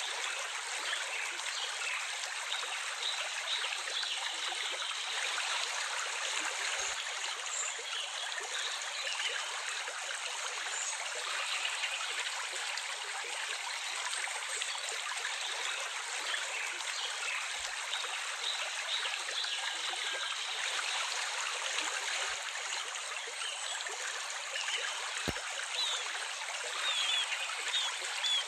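Steady flow of a small stream, trickling and gurgling, with a few faint bird chirps, most of them near the end.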